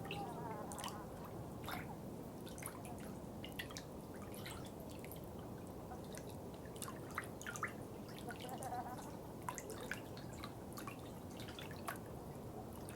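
Water dripping and trickling: many irregular, quick drips over a steady low water rush.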